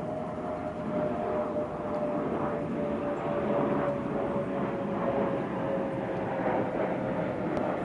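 A steady mechanical drone with one held tone that slides slowly down in pitch, over a wash of rushing noise.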